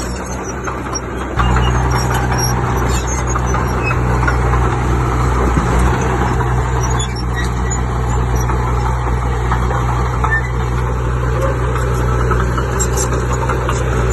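Heavy diesel engine of earthmoving machinery running steadily, getting louder about a second and a half in and holding there.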